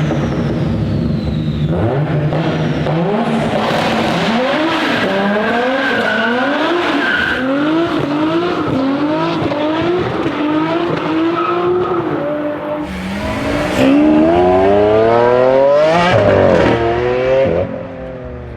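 Nissan Skyline R33's built RB25DET turbocharged straight-six revving hard, its pitch climbing and dropping in quick repeated steps, then a longer, louder climb near the end before it falls away.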